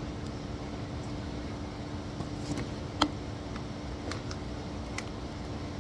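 Steady background hum with a faint even tone, and a handful of short light clicks and taps from parts and tools being handled while working on a rusted thermostat housing; the sharpest click comes about three seconds in.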